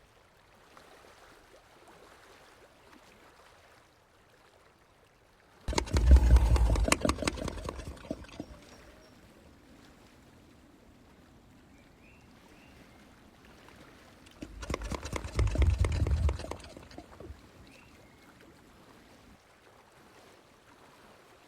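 White-lipped peccaries making two bursts of rapid clattering over a low rumble, each about two seconds long, about a quarter of the way in and again past the middle.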